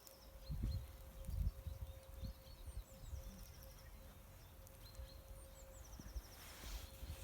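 A small songbird sings a short phrase twice: a few notes stepping down, then a quick even trill. Low, dull thumps come in between, the loudest a little after the start, and a faint steady hum runs underneath.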